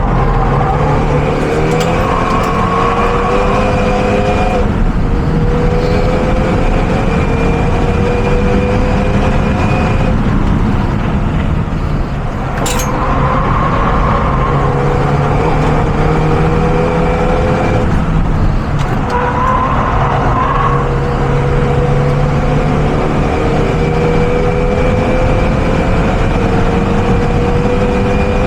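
Renault Mégane RS engine pulling hard under load, its pitch climbing steadily through long stretches in gear, with brief dips as the revs drop at gear changes three times.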